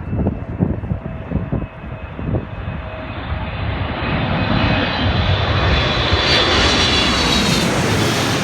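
Jet airliner's engines growing steadily louder as the plane approaches and passes close by, with a high-pitched fan whine standing out over the last few seconds.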